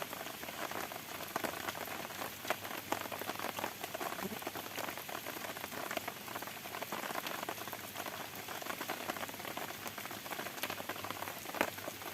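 Steady rain falling, with many separate drops ticking sharply through an even hiss.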